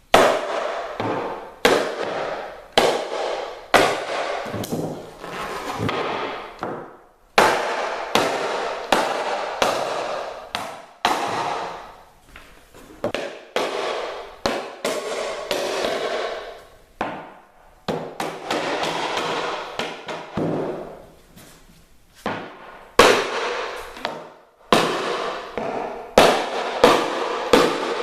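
Repeated sharp blows knocking wooden building forms loose inside a strip-built kayak hull, breaking the hot-glue joints that hold the forms to the strips. The knocks come irregularly, one or two a second, and each has a short ringing decay.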